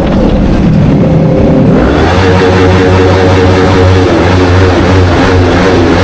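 Kawasaki Ninja 500's parallel-twin engine through an Akrapovic slip-on exhaust while riding: the engine note drops for the first second and a half, rises again about two seconds in, then holds a steady pitch.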